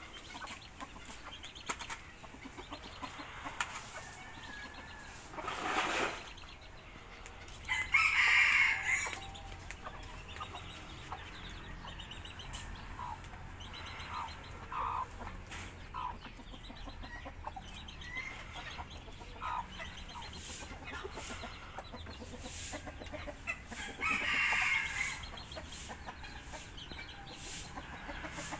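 Domestic chickens clucking with many short calls, and two louder, longer calls, one about eight seconds in and one near the end.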